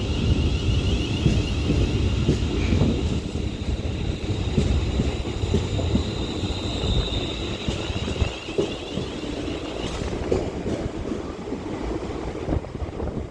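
Passenger train moving along the station tracks, rumbling steadily with a high whine that stops about ten seconds in, and a few clicks from the wheels on the rails.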